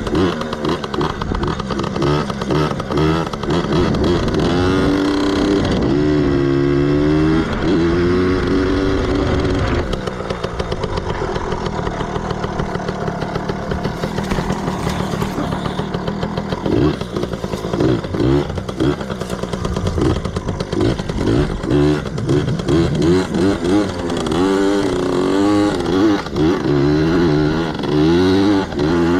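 Yamaha PW80 mini dirt bike's two-stroke single-cylinder engine being ridden, revving up and falling back again and again, with a steadier stretch in the middle.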